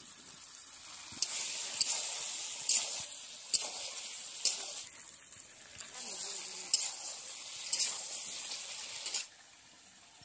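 Chicken curry sizzling in a metal wok over a wood fire while a metal spatula stirs it, scraping and clicking against the pan roughly once a second. The sizzle cuts off suddenly near the end.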